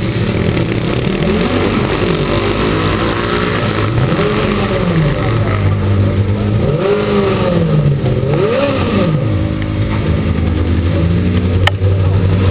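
Formula Student race car engine running with a steady low drone, its pitch repeatedly climbing and dropping as it is revved and accelerates. A single sharp click comes near the end.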